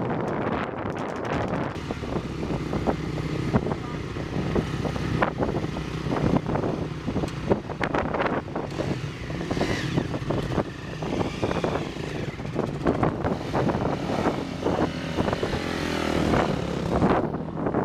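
Dirt bike engine running, with irregular crackle over a steady low note and the pitch rising and falling about halfway through.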